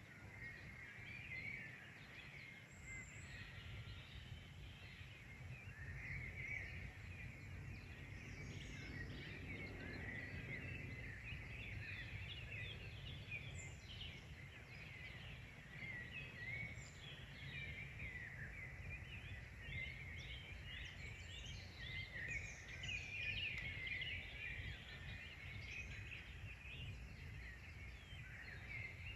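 Several birds singing together, many short overlapping chirps and trills in a continuous chorus, over a steady low rumble.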